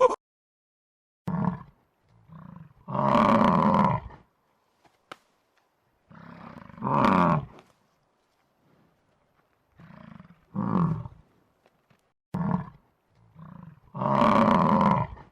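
A big cat roaring in three bouts a few seconds apart. Each bout is a short grunt, a faint one, then a longer roar of about a second.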